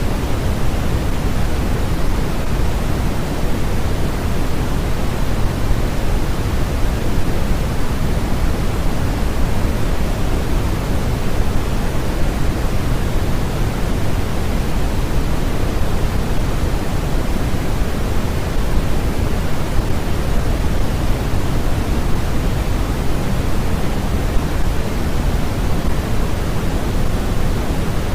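Continuous generated noise for sleep and study, steady and unchanging, weighted toward the low end so it sounds like a deep even hiss, closer to pink noise than pure white noise.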